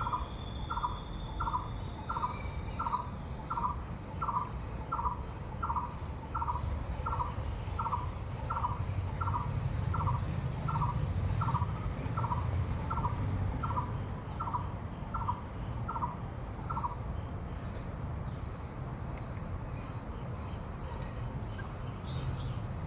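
A bird repeating a single short note evenly, about one and a half times a second, until it stops about 17 seconds in. Steady high-pitched insect buzzing runs underneath.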